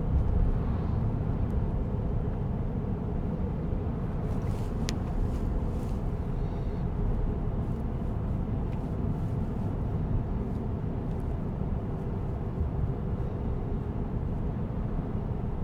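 Steady low road and tyre rumble inside the cabin of a moving Tesla Cybertruck, an electric truck. A few faint clicks come about four to six seconds in.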